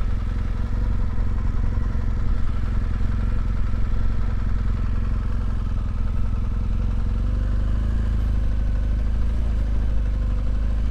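BMW R1200GS Adventure's boxer-twin engine running at a steady cruising speed, with a low rumble of wind and road noise under it.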